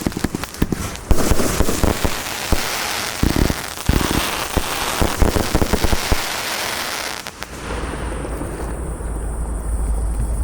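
Compound fireworks cake of 30 mm shots firing, with rapid bangs and dense crackling. About seven seconds in the crackling thins out, leaving a lower, steadier rumble.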